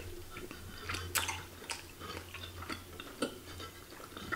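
A person chewing a mouthful of baso aci, chewy tapioca meatballs in spicy broth, close to the microphone: irregular soft wet clicks and smacks from the mouth, over a faint low hum.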